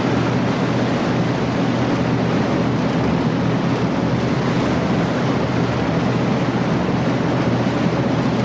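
Steady drone of a patrol boat's engines underway at sea, with a constant rush of wind and water wash over it.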